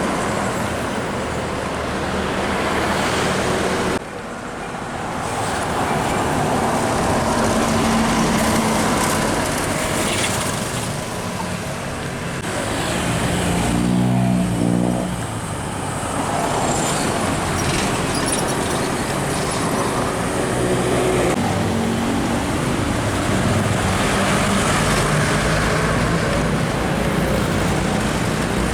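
Roadside traffic with trucks and cars driving past, diesel engines running over steady tyre and road noise; about halfway through, one engine's note grows loud and rises briefly. The sound changes abruptly several times, as if between separate clips.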